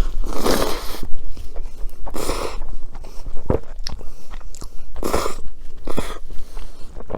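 Close-miked eating: biting and chewing of food, with four loud noisy bursts of about half a second and a few short sharp clicks between them.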